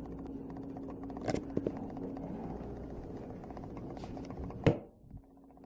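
A couple of light knocks, then one loud sharp bang near the end, over a steady low hum.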